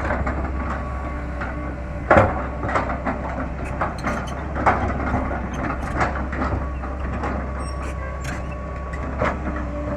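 Cat 318 hydraulic excavator at work: its diesel engine running steadily under repeated metallic clanks and knocks, the loudest about two seconds in.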